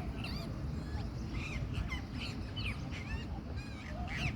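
Indian ringneck parakeets calling: many short, sharp screeching notes in quick succession, overlapping as if from several birds.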